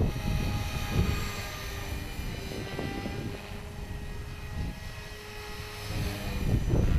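Hobby King 450 Pro electric RC helicopter in flight, its motor and rotors giving a steady whine of several pitches. Wind rumbles on the microphone throughout, strongest about a second in and again near the end.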